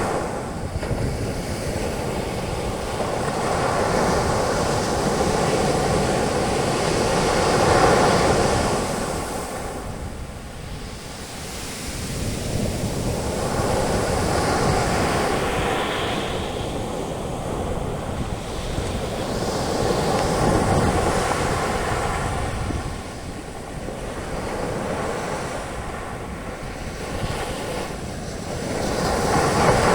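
Sea waves breaking on a beach, the surf and foam washing in a steady hiss that swells and fades every several seconds, with some wind rumble on the microphone.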